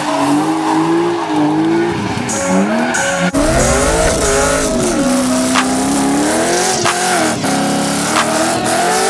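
Car engine revving up and down with tires squealing as a car drifts. The engine pitch climbs and falls several times, with short sharp cracks, and the sound changes abruptly about three seconds in.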